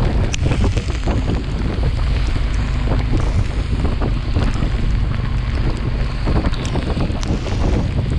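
Wind rushing and buffeting on a chest-mounted action camera's microphone on a moving motorcycle, over the low, steady drone of the Yamaha FZS V3's single-cylinder engine, with scattered sharp ticks.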